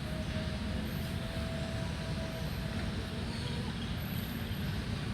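Steady low rumble of distant city traffic, with a few faint, short, high bird chirps.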